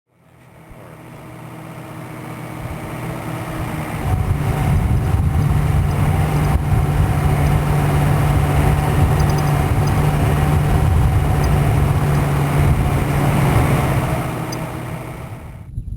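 A vehicle engine running steadily with a low hum. It fades in over the first few seconds and fades out near the end.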